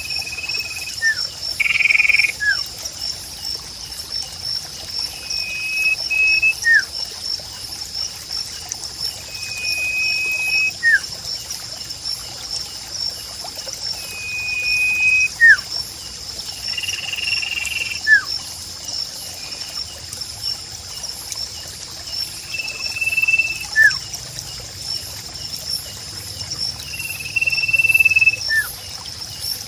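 A sirpu bird calls over and over, about every four to five seconds: each call is a level, high whistled note and then one quick, shorter note. Under it run a steady, pulsing chirring of insects and a trickle of water.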